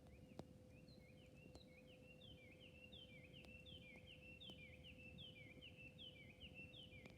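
A wild bird sings a long run of quick, repeated chirping notes over a campfire's faint crackling, with a few sharp pops from the burning wood. A faint steady hum runs underneath.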